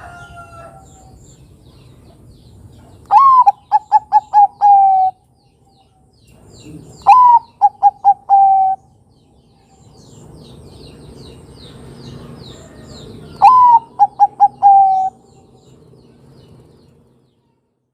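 Zebra dove (Bangkok-type perkutut) cooing three times. Each phrase is a loud opening note followed by a quick run of short coos and a longer closing note, with faint high chirps of small birds between phrases.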